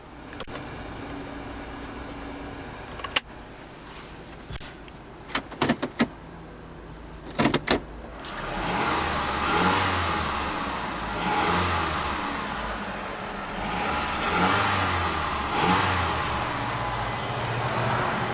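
2008 Mazda CX-7's turbocharged 2.3-litre four-cylinder idling in Park, heard from inside the cabin, with a few sharp clicks. About halfway through it is revved several times, each rise in pitch falling back.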